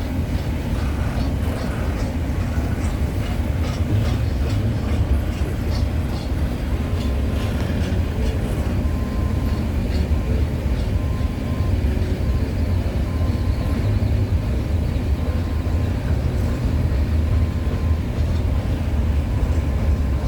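CN freight train cars rolling past: a steady low rumble of wheels on rail, with faint scattered clicks and a weak steady high tone in the latter half.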